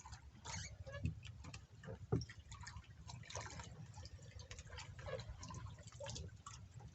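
Water splashing and dripping in irregular small splashes and clicks, over a steady low rumble.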